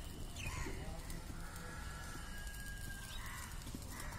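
Faint bird calls in the background: a few short calls and one long, steady call of about a second and a half in the middle, over a low rumble of outdoor noise.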